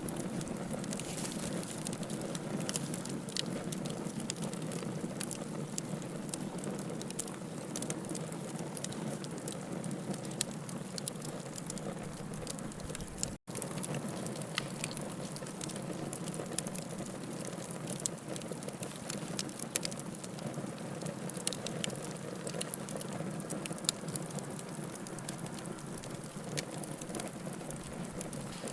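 Wood fire burning in a fireplace: a steady low rush of flames with many irregular sharp crackles and pops from the burning firewood. The sound drops out for an instant about halfway through.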